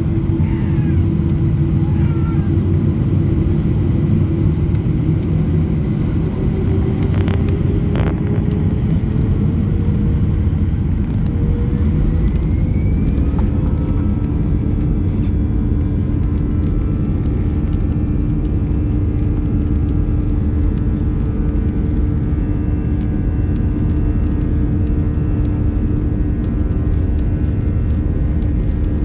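Jet airliner's engines running over a heavy, continuous low rumble. An engine tone rises in pitch about six seconds in and then holds steady.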